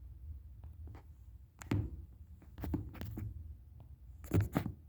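A few dull knocks and thumps over a low steady hum, the loudest about four and a half seconds in.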